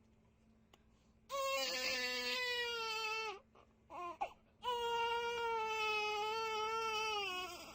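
Crying: two long, level wails, each dropping in pitch at the end, with a short sob between them.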